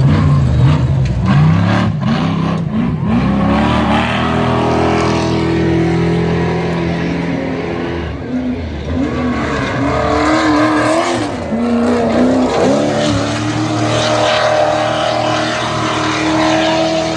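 Off-road race truck engines running hard at high revs, their pitch rising and falling as the trucks accelerate and pass, with a sharp dip in pitch about twelve seconds in and a steady high engine note near the end.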